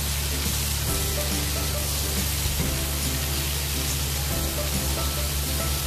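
Teasel gourd slices sizzling steadily as they fry in hot oil in a pan, with background music playing over it.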